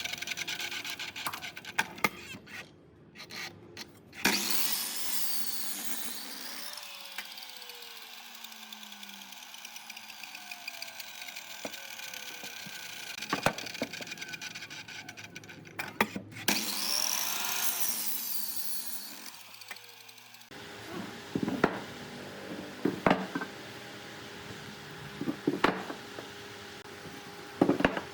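Wood being worked with tools in a series of short clips: sawing and rubbing on wood, with falling whines from a tool slowing down and many sharp knocks of wood on wood.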